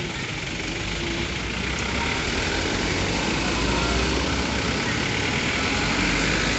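Mitsubishi Fuso truck's diesel engine running steadily. It grows a little louder over the first two seconds, then holds.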